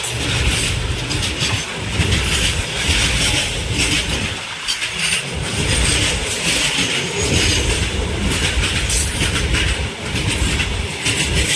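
Indian Railways covered freight wagons rolling past close by: a steady rumble of steel wheels on the rails with repeated clacks as the wheels cross the rail joints.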